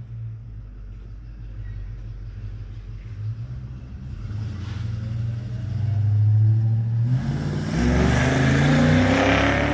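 Car engine rumbling steadily at low revs and growing louder, then revving up with a rising pitch about seven seconds in, joined by a rush of noise as it accelerates.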